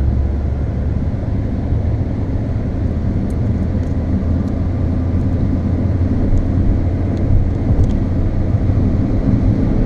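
Steady in-cabin drone of a Volkswagen Golf driving at speed on a wet track: engine and tyre noise, with a few faint clicks.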